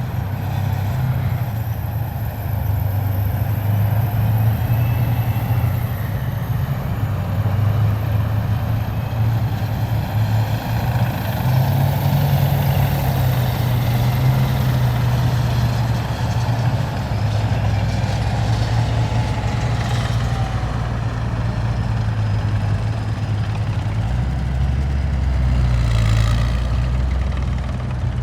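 Heavy military vehicles driving past in a column, their engines running with a steady deep rumble that grows deeper and closer about three-quarters of the way through. Two short hisses are heard, one past the middle and one near the end.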